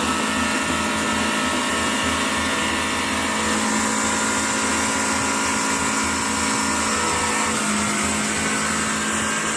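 Heavy truck engine running hard and steady under load, with a continuous mechanical whine.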